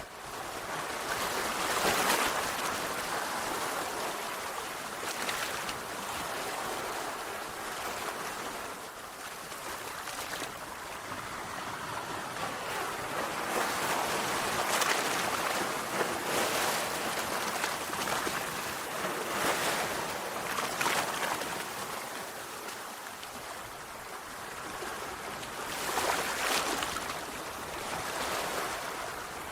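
Sea waves washing onto a shore: a steady hiss of surf with a louder wave breaking every few seconds, the biggest about two seconds in and near the end.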